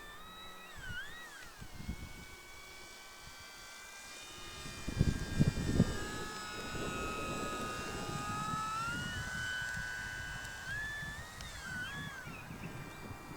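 Electric motor and propeller of a Durafly Slow Poke RC model plane in flight, a whine whose pitch rises and falls as the throttle changes. There are a few low rumbles about five seconds in.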